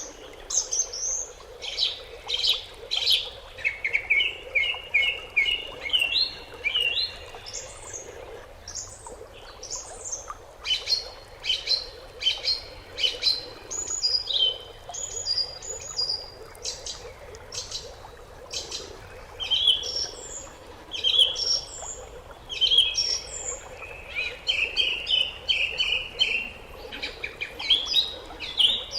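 Several birds chirping and twittering in quick, overlapping calls, including runs of short repeated notes.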